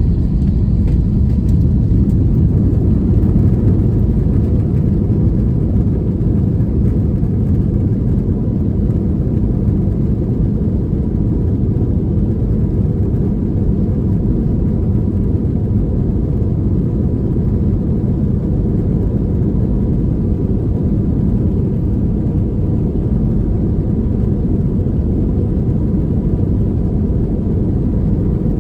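Airbus A321 jet engines at takeoff power, heard from inside the cabin as a steady, loud low rumble with a faint steady high tone above it.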